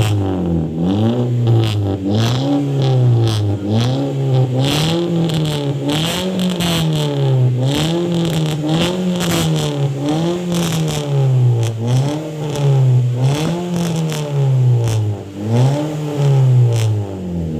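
Engine exhaust revved over and over, its pitch climbing and falling back about once every second and a quarter, in a steady run of blips.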